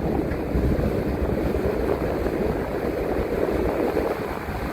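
A city transit bus underway, heard from the driver's seat: a steady rumble of engine and road noise.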